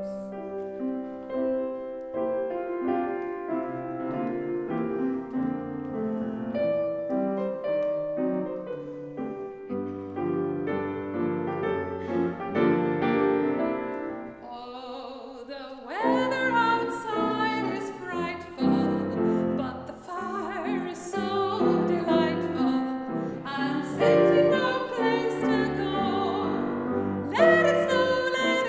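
Piano playing a Christmas song accompaniment alone; about sixteen seconds in, a classically trained female voice with vibrato comes in, singing with the piano.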